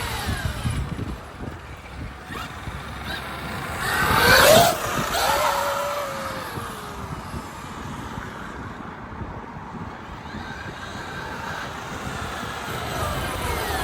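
Traxxas XRT Ultimate RC monster truck's electric drivetrain whining as it is driven. The whine swells loudest about four seconds in, then falls in pitch as the truck slows, and settles to a lower steady whine.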